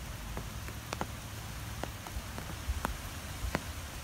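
Scattered raindrops hitting a hard surface close by: sharp ticks a few times a second at irregular intervals, over a steady low rumble and hiss.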